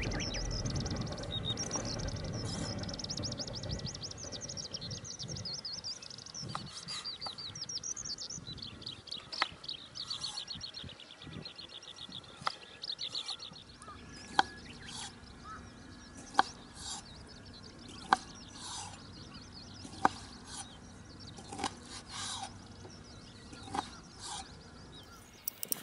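Small birds singing in rapid, high trills over a low rumble for the first half or so. After that come sharp short calls about every two seconds.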